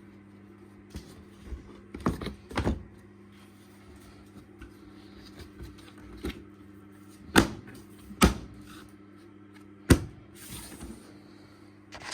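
Several sharp knocks and clicks of dishwasher parts being handled, over a steady low hum.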